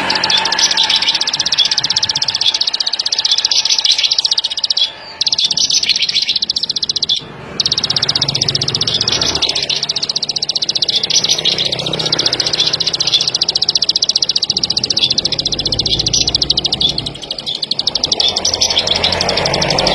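A ciblek padi, a small rice-field prinia, singing a long, rapid trill of high, clicking notes. It breaks off briefly twice, around five and seven seconds in.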